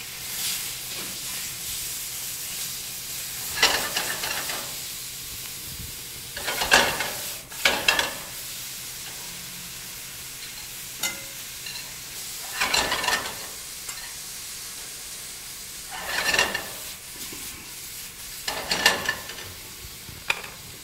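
Shrimp sizzling in hot oil in a sauté pan over a high gas flame, flaring louder every few seconds as they are turned with tongs.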